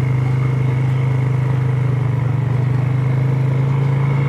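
Steady drone of a vehicle motor running at a constant speed: an even low hum with a thin, steady high whine above it.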